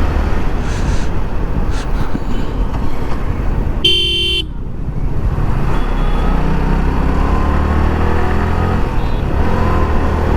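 Motorcycle ride with steady engine and wind rumble. A vehicle horn sounds once, briefly, about four seconds in. From about six seconds on the engine note rises gently as the bike speeds up.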